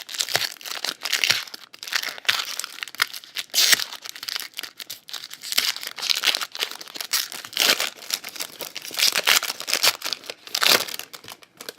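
Trading card pack wrapper of 2018 Topps Chrome Update being torn open and crinkled by hand, a run of irregular crackles and sharp crinkles.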